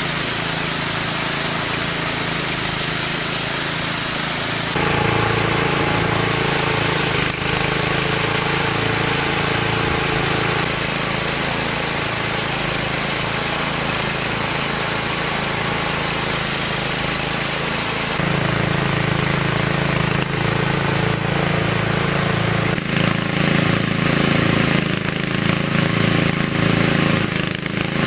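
Small engine running steadily with a fast, even pulse; its tone changes abruptly a few times.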